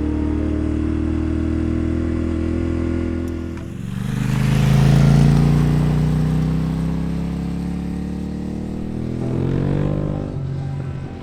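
Yamaha Ténéré 700's parallel-twin engine under way. It runs steadily, dips briefly about three and a half seconds in, then pulls up with rising pitch, eases off, and rises again near the end.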